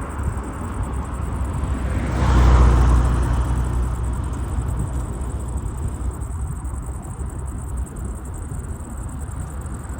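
An engine rumbling, growing loudest about two to three seconds in and then slowly fading away.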